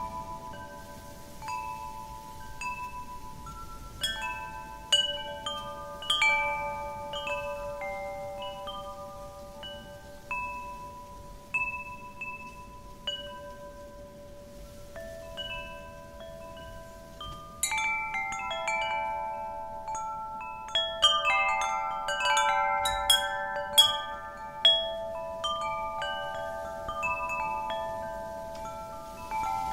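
Wind chimes ringing as the wind moves them: irregular strikes of several different notes that ring on and overlap, with a busier flurry of strikes a little past the middle. A steady low rush of wind runs underneath.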